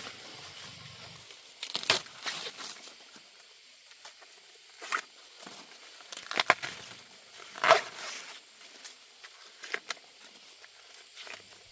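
Intermittent crackling and tearing rustles of dry plant material, several short sharp bursts a second or two apart, the loudest a little past the middle.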